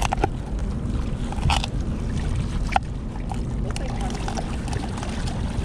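Steady low wind and water rumble around a boat, with a few sharp knocks and taps from a knife cutting gizzard shad for bait on a board.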